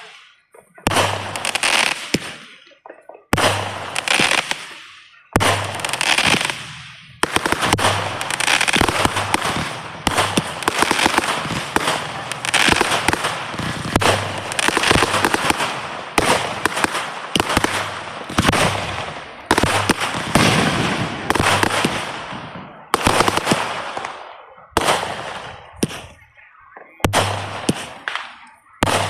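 Fireworks going off in a rapid series: sharp bangs, each followed by a crackling hiss lasting a second or two. They come a couple of seconds apart at first, run almost without a break through the middle, then space out again near the end.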